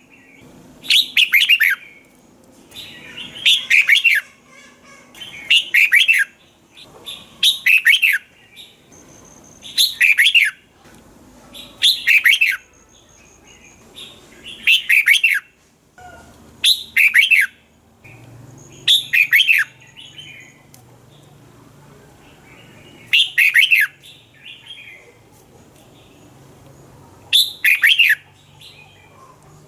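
Red-whiskered bulbul singing: short, loud warbled phrases of quick downward-sweeping notes, about one every two seconds, with longer pauses between phrases in the second half.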